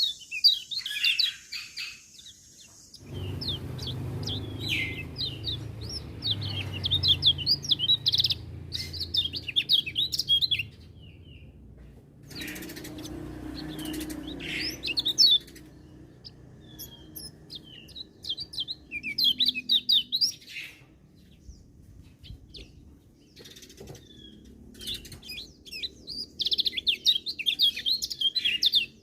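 Kecial kuning white-eye singing in quick bouts of rapid, high twittering chirps, with short pauses between bouts.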